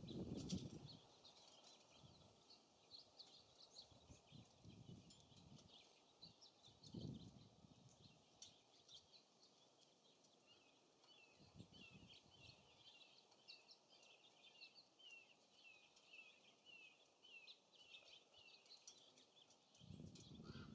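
Small songbirds chirping faintly at a feeder, with a quick run of short falling chirps, about two or three a second, in the second half. Occasional low rumbles come and go underneath.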